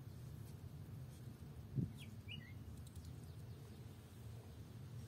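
Faint bird chirps now and then over a low outdoor background, with a thin falling whistle near the end. A soft knock about two seconds in is the loudest sound.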